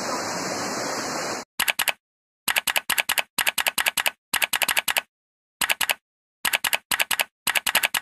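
Steady rushing of river water for about the first second and a half, then it cuts off abruptly. In its place comes a string of short clusters of rapid typewriter-like key clicks, three to five clicks each, with dead silence between clusters: a typing sound effect laid over the edit.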